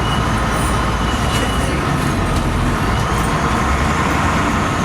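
LiAZ-5256 city bus under way, heard from inside the passenger cabin: steady engine and road noise.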